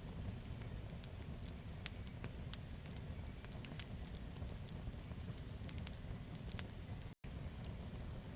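Campfire burning, with scattered sharp crackles and pops over a low steady rumble of the flames. The sound cuts out for an instant about seven seconds in.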